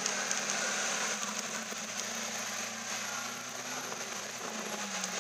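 Lamborghini Aventador's V12 running steadily at low revs as the car creeps past, over street noise.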